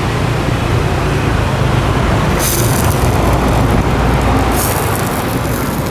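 Steady rumble of street traffic. A higher hiss joins about two and a half seconds in.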